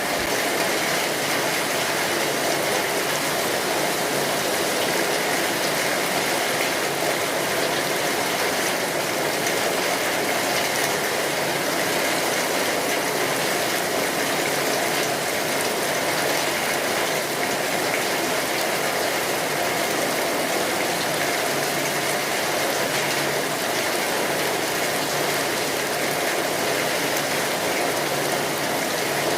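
Steady rainfall: an even, unchanging hiss of rain falling on surfaces.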